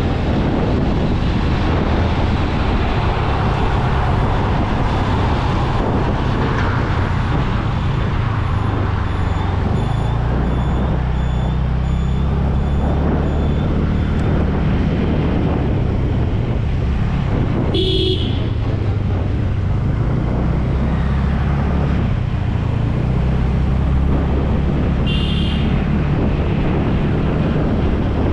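Motorcycle engine running under way in traffic, its pitch shifting in steps, with road and wind noise on the microphone. A faint high beep repeats evenly for several seconds in the first half. Short vehicle horn toots come about two-thirds of the way through and again near the end.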